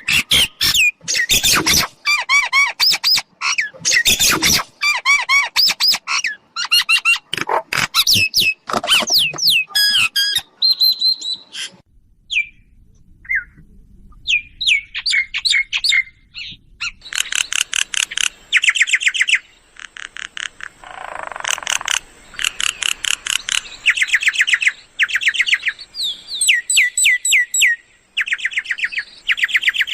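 Mynas calling, used as a lure call for trapping mynas: loud, varied whistles mixed with harsh squawks, a short lull with a few scattered notes about halfway, then fast runs of repeated chattering notes.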